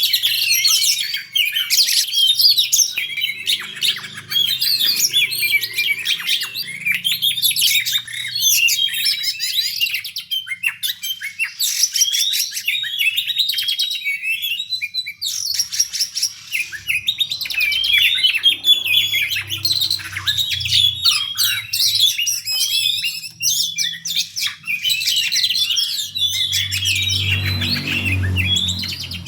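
Oriental magpie-robin (kacer) singing its fast, dense fighting song: a nearly unbroken stream of rapid, varied chirps and whistles with only brief pauses.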